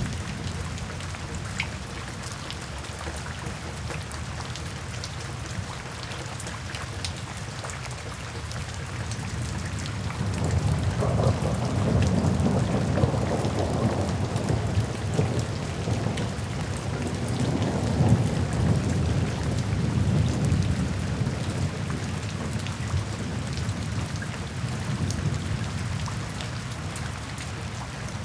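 Steady rain falling, with a long low rumble of thunder that swells up about a third of the way in, rolls on for some ten seconds and fades away.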